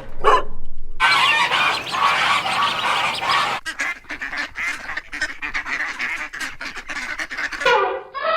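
A flock of domestic waterfowl calling, many calls overlapping at once. The calling starts abruptly about a second in and thins to separate sharp calls partway through.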